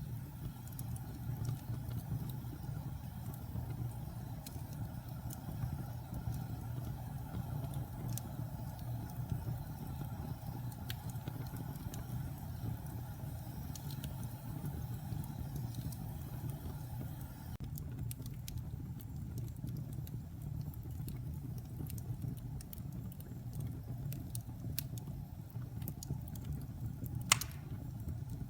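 Wood fire burning in a fireplace: a steady low rumble of the flames with scattered crackles of the burning wood, and one louder pop near the end.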